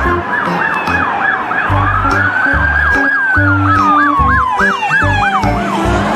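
Police car siren: a fast yelp sweeping up and down about three times a second, overlaid with a slower wail that rises and then falls, over background music with a steady beat.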